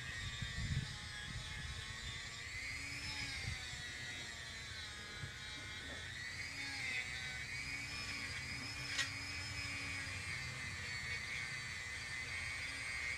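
A high-speed rotary sanding tool whining against the Honda transmission's aluminium case. Its pitch dips and recovers as it loads up on the metal, and there is a sharp click about nine seconds in.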